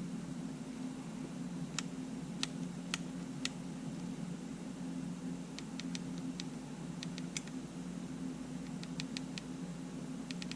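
Sony A7 camera's buttons and control dials clicking as they are pressed and turned in a function test, as scattered sharp clicks in small groups over a steady low hum.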